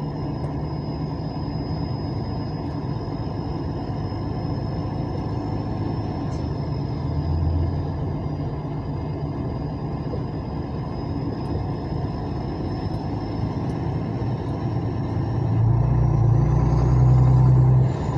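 Vehicle engine running with a steady rumble, heard from on board. It gets louder and deeper a few seconds before the end.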